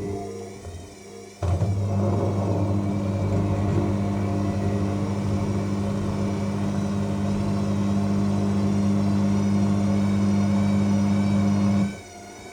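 AEG L7FE7461BI washing machine's drum motor running in the final spin stage: a steady hum with a wavering whine over it that starts abruptly about a second and a half in and cuts off near the end.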